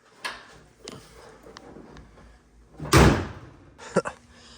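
A car door being handled: a few light clicks and knocks, then one loud thud about three seconds in.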